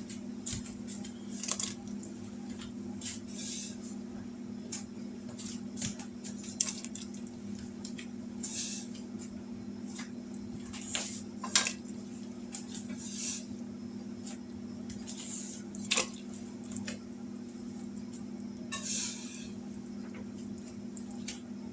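A spatula clinking and scraping against a cooking pot at irregular moments as rolled dough dumplings are dropped one at a time into boiling chicken broth, with brief soft splashes, over a steady low hum.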